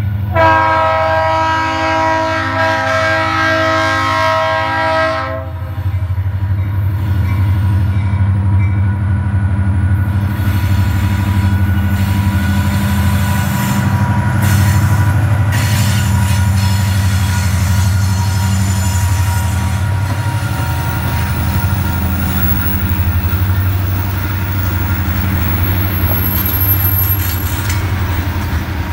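Norfolk Southern diesel freight locomotive sounding its multi-note air horn for about five seconds near the start as it approaches the crossing. Then the diesel engine passes with a steady low drone, and the freight cars roll by rumbling and clattering on the rails.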